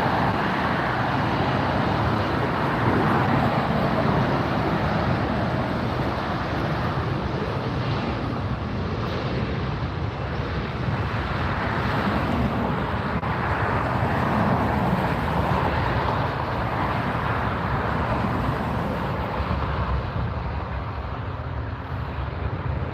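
Jet airliner engines at takeoff power, a steady loud roar that swells and eases only slightly.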